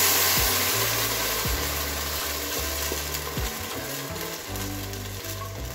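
Blended tomatoes sizzling as they hit hot oil, fried onions and green pepper in a stainless steel pot; the sizzle is loudest at first and slowly dies down. Background music plays underneath.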